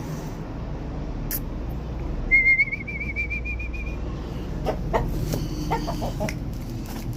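A bird gives one warbling, trilled whistle lasting under two seconds, a little over two seconds in, followed by a run of short clicks or clucks.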